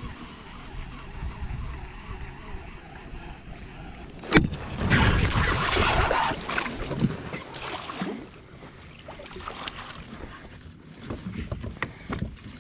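Handling noise aboard a kayak: a sharp knock about four seconds in, then a couple of seconds of rustling, with faint scattered clicks afterwards.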